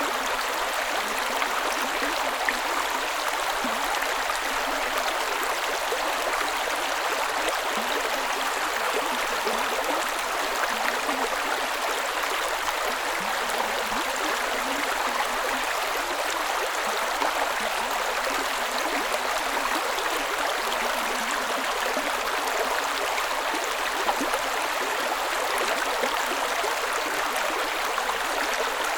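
Creek water running steadily in an unbroken rush.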